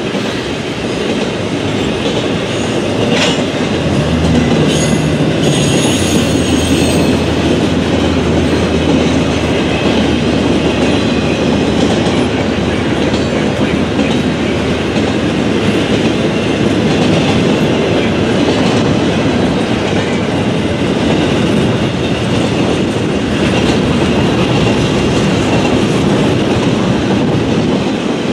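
Double-stack intermodal container train rolling past: a steady rumble and clatter of the well cars' wheels on the rails, with a brief high wheel squeal a few seconds in.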